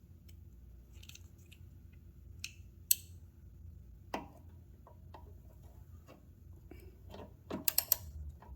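Clicks and taps of a hand tool loosening a bolt on a lawn mower's carburetor: a few single clicks, then a quick run of clicks near the end, over a faint steady low hum.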